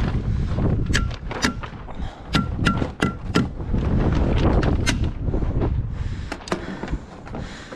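Staples being driven into plastic vapour barrier on roof trusses: about nine sharp snaps in quick groups, several with a short metallic ring. Underneath, heavy wind rumble on the microphone eases near the end.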